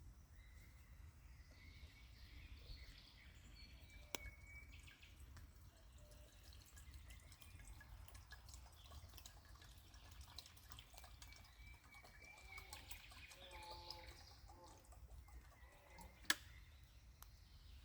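Faint outdoor ambience of small scattered ticks and drips, with two sharper clicks, about four seconds in and near the end.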